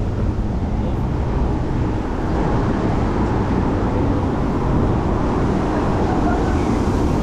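Steady city traffic noise with a low rumble, heard from a bicycle riding through downtown streets; it grows slightly louder about two seconds in.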